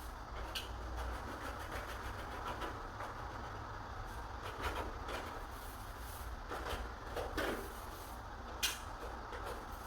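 A few light knocks and clicks from handling or work over a steady low rumble.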